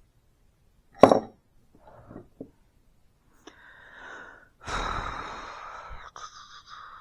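Workshop handling sounds: a sharp knock about a second in, a few light taps, then from about three and a half seconds a rough scraping rub that swells and trails off.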